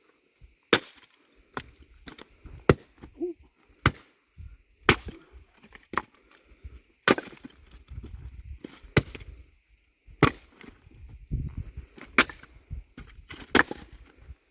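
Axe splitting firewood rounds: about a dozen sharp wooden chops, irregularly spaced roughly a second apart.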